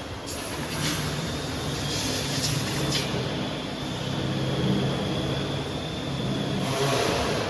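A CNC router running: steady machine noise with a low hum, a few sharp clicks in the first three seconds, and a faint high whine from about three seconds in until near the end.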